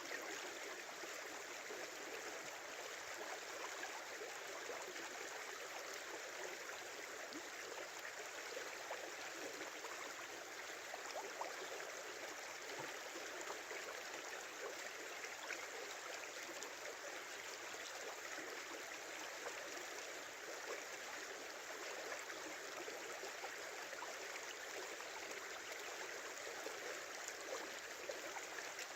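A river flowing: a steady rush of running water with many small gurgles and splashes in it.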